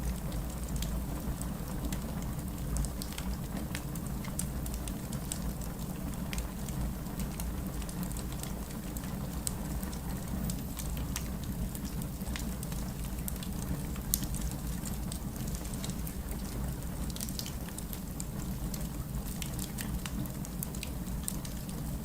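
Heavy rain falling steadily with a low rumble, mixed with the scattered crackles and pops of a fireplace fire.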